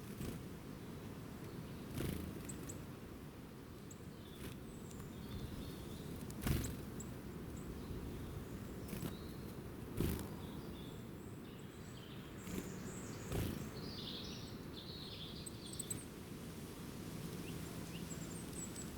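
Faint high chirps of small birds over a steady low rumble, with a few sharp knocks spaced a few seconds apart.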